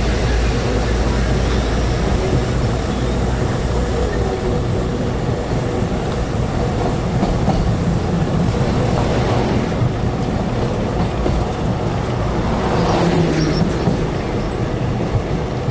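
Passenger train running at speed, heard from an open carriage window: a steady rumble of wheels on the rails mixed with rushing air.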